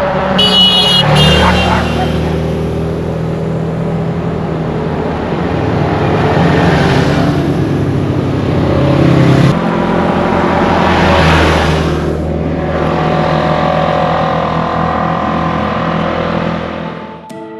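Side-by-side UTV engines running and revving as the vehicles pull away, with tyre and wind noise. A brief high-pitched squeal comes about half a second in, and the sound cuts off just before the end.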